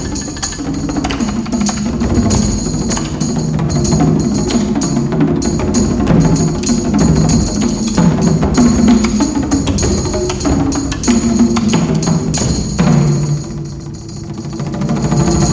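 Percussion trio with synthesizer playing a loud, fast, dense passage of drum strokes over pitched low notes. It eases briefly near the end, then builds again.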